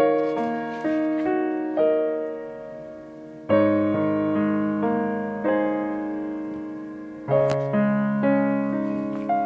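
Slow, gentle piano music: single notes and chords struck and left to fade, with a new chord every second or two.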